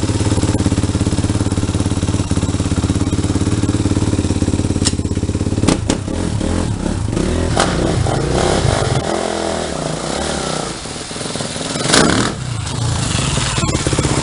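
Kawasaki KX450F motocross bike's single-cylinder four-stroke engine idling steadily, then about six seconds in its note turns uneven and shifts in pitch with the throttle, with a few sharp knocks along the way.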